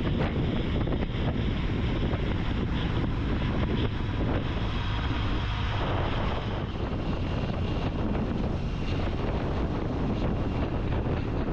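Steady wind noise on the microphone of a camera on a motorcycle riding at speed, over a low, even rumble from the bike.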